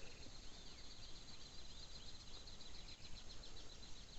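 Quiet outdoor background: birds chirping, with a fast high ticking trill like an insect's coming in about halfway through.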